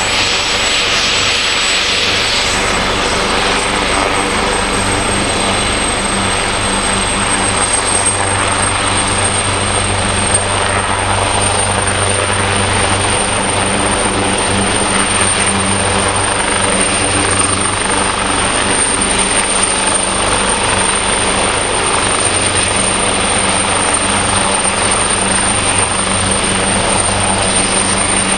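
Helicopter running steadily close by, with a high whine that rises slightly over the first ten seconds or so and then holds level.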